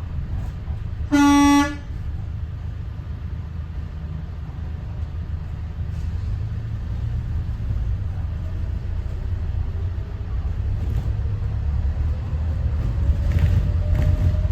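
Steady low drone of a Thomas Saf-T-Liner C2 school bus's Detroit diesel engine and road noise while riding. About a second in, a vehicle horn gives one short toot. From the middle on, a faint whine rises steadily in pitch as the drone grows a little louder.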